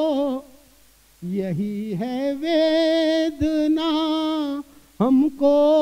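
A man singing a Hindi geet unaccompanied into a microphone, holding long wavering notes in three phrases, with short pauses between them about half a second in and near the end.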